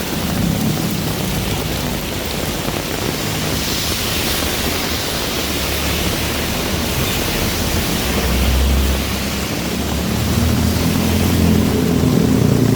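Heavy rain falling steadily. A vehicle engine's low hum fades out at the start and comes back in the last few seconds.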